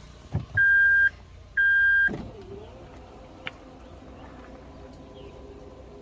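Two short electronic beeps, each about half a second long and a second apart, just after a dull thump.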